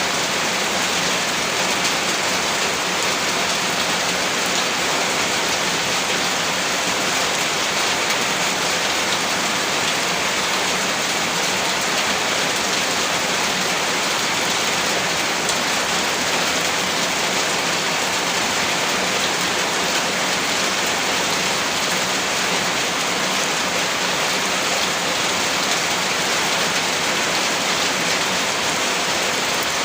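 Steady heavy rainfall, an even dense hiss of drops hitting a surface that does not change throughout.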